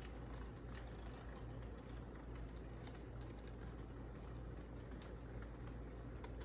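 A train running: a steady low rumble with faint scattered clicks.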